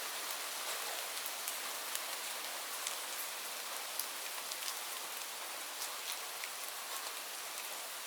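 Steady rain falling, an even hiss with scattered sharp drop ticks close by.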